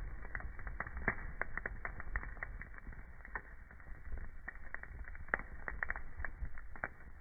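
Burning wood in a fireplace crackling, with frequent irregular pops and snaps over a low steady rumble. A louder pop comes about five seconds in.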